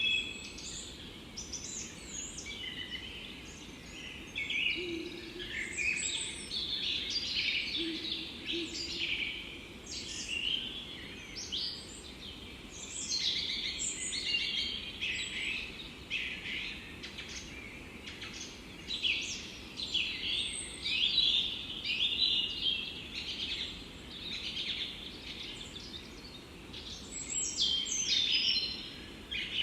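Several songbirds singing and chirping in a forest, with short calls overlapping almost without pause over a faint steady background rumble.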